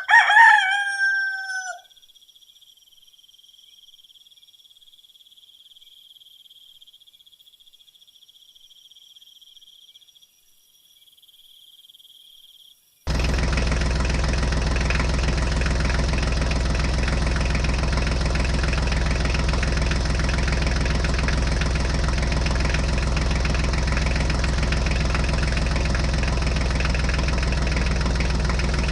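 A rooster crows once at the start. A faint high steady tone follows, then about halfway through a small engine starts abruptly at full level and runs steadily with a low hum: the engine of a home-built mini tractor idling.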